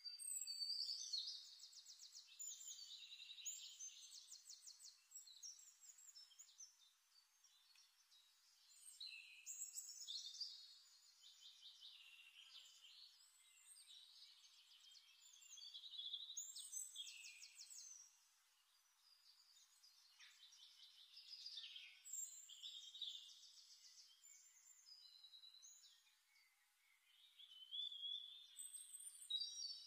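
Faint birdsong: a songbird singing phrases of rapid high trills, a new phrase every few seconds.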